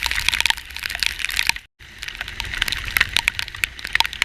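Heavy rain, with a dense crackle of individual drops striking close to the microphone over a low rumble. The sound cuts out for an instant about a second and a half in.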